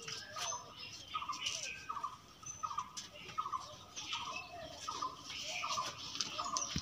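A bird calling over and over in short chirps, about one every three-quarters of a second.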